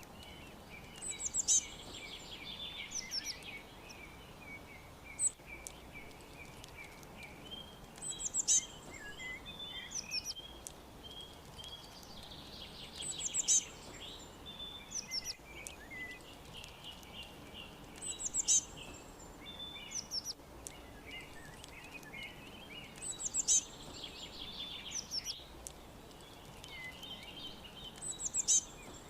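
Several songbirds chirping and trilling over a steady low background hiss, with a louder burst of rapid high chirps about every five seconds.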